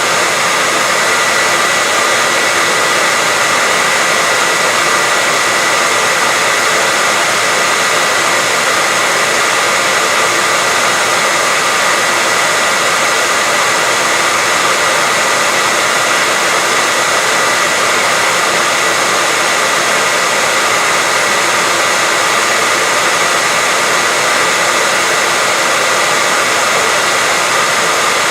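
Continuous white noise: an even, steady rushing hiss, strongest in the upper range, with a faint steady high whine running through it and no change throughout.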